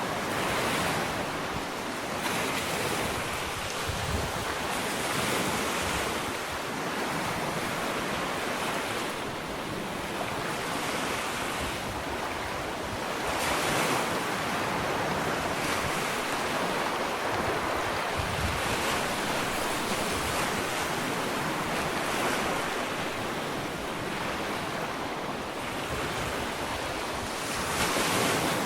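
Gentle ocean waves breaking and washing up a sandy beach, a continuous surf wash that swells and ebbs every few seconds, with some wind on the microphone.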